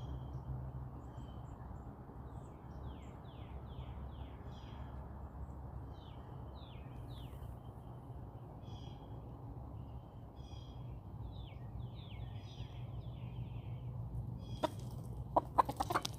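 Small songbirds chirping over and over, many short, high notes that sweep quickly downward, over a steady low outdoor background hum. Near the end a quick cluster of sharp clicks is the loudest sound.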